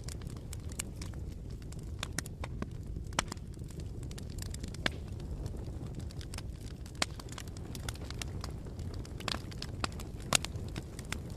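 Campfire burning: a steady low rumble with irregular sharp pops and crackles from the burning wood, the loudest pop about a second before the end.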